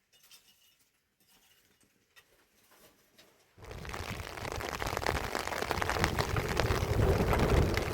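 Near silence with a few faint clicks, then about three and a half seconds in heavy rain starts suddenly: a dense patter of drops that grows louder toward the end.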